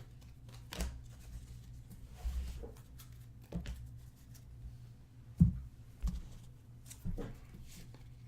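Trading cards being flipped through and handled by hand: a string of short, irregular taps and card slides, the loudest about five and a half seconds in.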